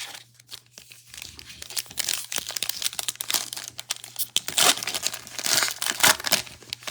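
Foil wrapper of a football trading card pack being torn open and crinkled: a dense run of crackling, strongest in the second half.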